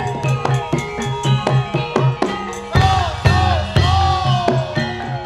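Javanese ensemble music with drums and struck pitched percussion keeping a steady beat, and a melody that bends in pitch about three to four seconds in.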